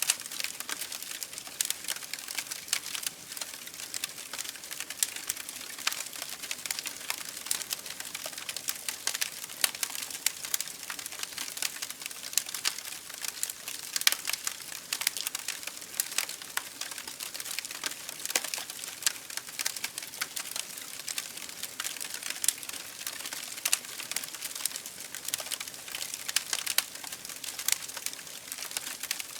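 Campfire burning with continuous irregular crackling and popping over a soft hiss.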